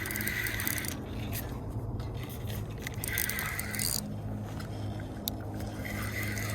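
Fishing reel being cranked in spells while playing a hooked fish, a scraping whir that comes and goes three times.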